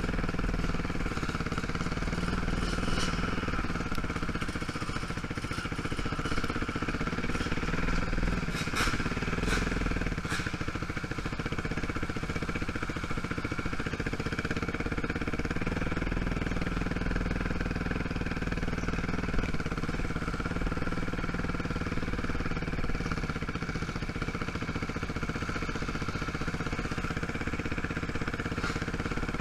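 Quad (ATV) engine running steadily at low speed on a dirt trail, with a few brief clicks and rattles.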